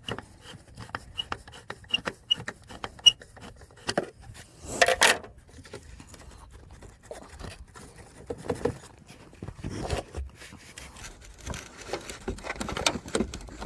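Scattered clicks, knocks and rubbing of hand tools and metal and plastic parts being handled while working on a fuel filter and its bracket, with a short hiss about five seconds in.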